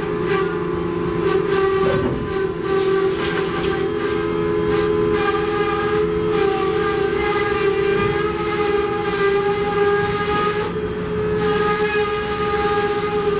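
Coal hopper cars creeping slowly through the loadout beneath the loading chute: a steady whine of several held tones runs throughout, with scattered rattles and knocks, most of them in the first five seconds.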